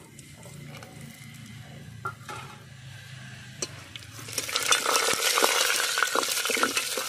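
Coconut pieces frying in oil in an aluminium pressure cooker, sizzling quietly at first. A steel ladle begins stirring and scraping about four seconds in, and the sizzle then turns loud and crackly, with metallic clinks against the pot.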